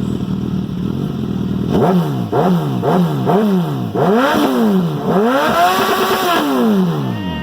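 Suzuki GS1000's air-cooled inline-four motorcycle engine idling, then blipped four times in quick succession and revved twice more, longer and higher, the last held for about two seconds. Very loud.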